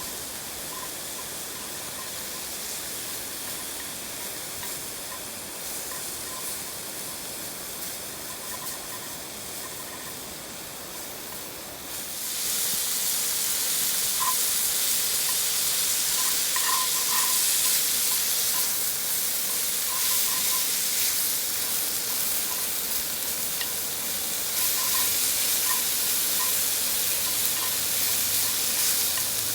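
Food sizzling in a pan over a campfire, a steady hiss with small scattered pops, which gets clearly louder about twelve seconds in.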